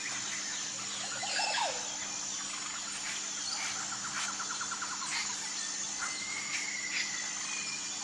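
Wild birds calling over a steady high-pitched insect drone: short whistled notes, a rapid trill about halfway through and a note that slides downward early on.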